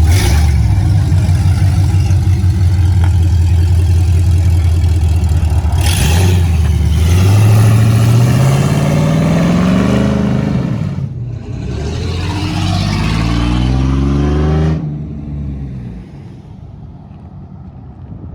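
Truck engine running loud and low, then revved twice, its pitch climbing each time, before it cuts off sharply a little past halfway.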